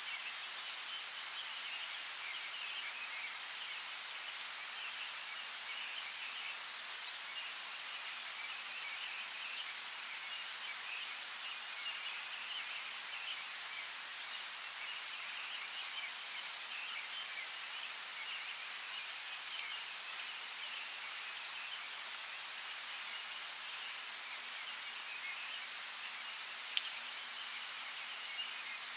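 Steady rain pattering, with small birds chirping through it and a few single louder drop ticks, one standing out near the end.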